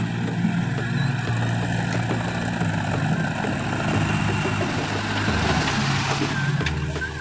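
Heavy diesel engine running steadily. Its low rumble shifts up and down in pitch a few times.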